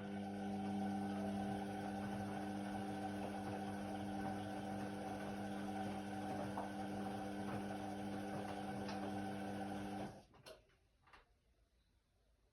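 Indesit WIDL 106 washer-dryer's pump running with a steady hum for about ten seconds, then stopping abruptly, followed by a few faint clicks.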